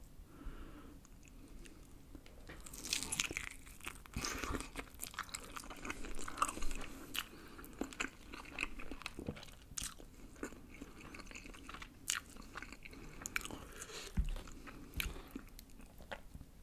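Close-up eating sounds of a sauce-coated Goobne Volcano fried chicken wing: it is bitten and chewed, with quick sharp crackles starting about three seconds in and thickest over the next several seconds, then sparser chewing clicks.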